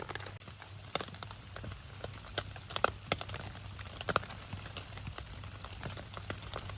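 Rain pattering and dripping on a tarp: irregular sharp taps over a steady hiss of rainfall.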